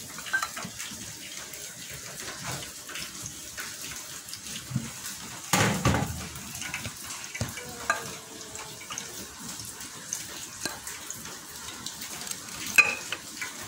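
Steady hiss of heavy rain, with a loud knock about halfway through and a sharp click near the end.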